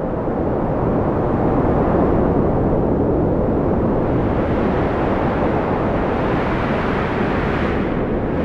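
Strong wind blowing steadily in a deep rush, gusting a little brighter midway and easing slightly near the end.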